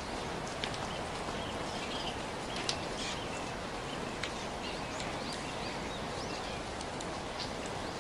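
Steady rain ambience, a constant hiss with scattered sharp drip ticks, and birds chirping in short calls through it.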